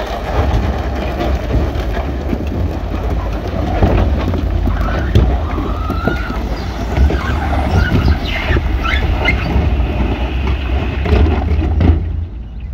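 Heavy earthmoving machinery at work: a diesel engine's low rumble with scattered clanks and knocks, and a few brief high squeals in the middle. The loud noise drops away shortly before the end.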